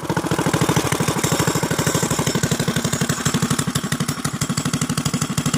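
Harbor Freight Predator 212cc single-cylinder four-stroke on a Baja MB200 mini bike, fitted with an Isky cam and exhaust through a custom header and RLV muffler, idling with steady, evenly spaced exhaust pulses.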